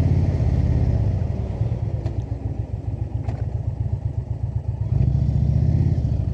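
Indian V-twin cruiser motorcycle engine running while riding. It eases off and goes quieter about half a second in, then pulls louder again about five seconds in.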